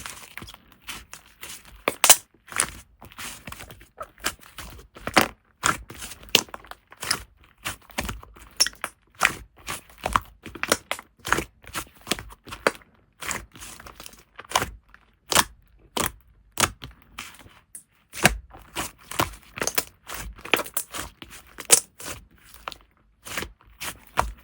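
Slime being squeezed and pressed by hand, giving a quick, irregular run of sharp pops, clicks and crackles, several a second.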